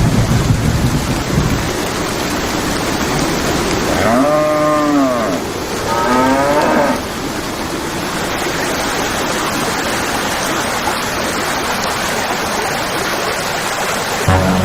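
A cow mooing twice, about four and six seconds in, over a steady hiss of noise.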